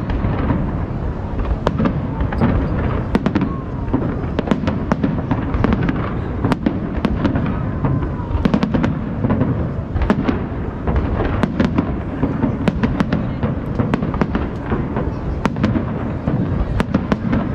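Aerial fireworks shells bursting one after another, with deep booms and constant sharp crackling and no let-up.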